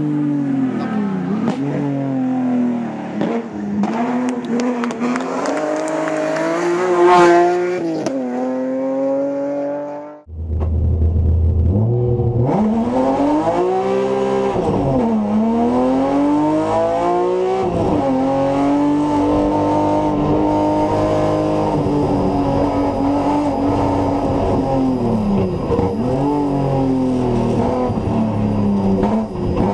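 BMW M3 race car's engine revving hard through the gears, its pitch rising and falling with each shift. For the first ten seconds it is heard from the roadside, growing loudest as it passes close by about seven seconds in. After a sudden cut it is heard from inside the cabin, deeper, with a heavy low rumble.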